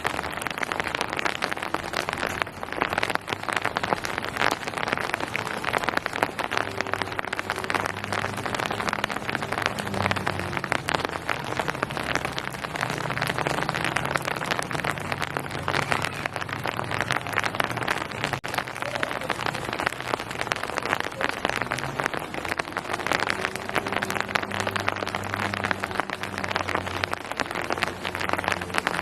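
Steady rain falling on surfaces: an even hiss made of many small drop impacts. Underneath it runs a faint low hum that steps up and down in pitch now and then.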